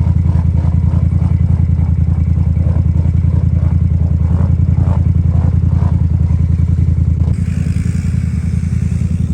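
An off-road vehicle's engine running loud and steady with a fast, even pulse. About seven seconds in, the engine note drops back and a hiss rises.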